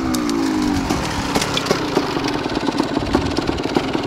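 Motocross motorcycle engine dropping in pitch after a rev, then idling with a rapid, uneven ticking.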